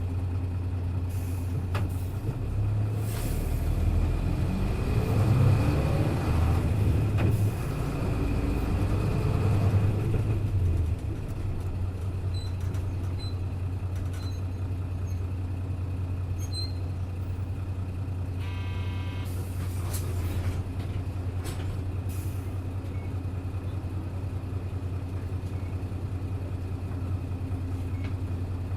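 Hino Blue Ribbon bus's diesel engine heard on board. It runs at a steady idle, revs up with rising pitch for several seconds, and drops back to the steady idle about eleven seconds in. A short electronic beep sounds near two-thirds of the way through.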